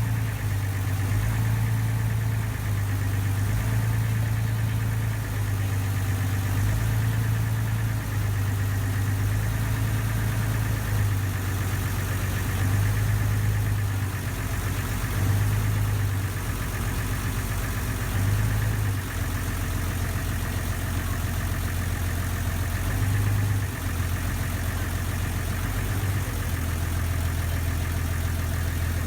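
River ferry's engine running steadily, a deep hum whose pitch shifts slightly every few seconds.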